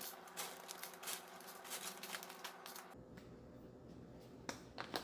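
Light handling noises: rapid small clicks and rustles of packaging being opened and handled, thinning out about three seconds in to a few isolated clicks.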